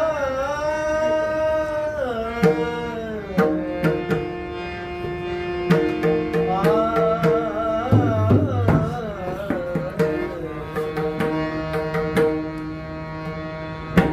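Male devotional singer holding long, ornamented notes of a Marathi bhajan over a steady harmonium accompaniment, with hand-drum strokes.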